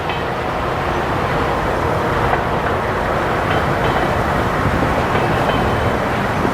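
Train cars rolling past, a steady loud rumble and clatter of wheels on the rails.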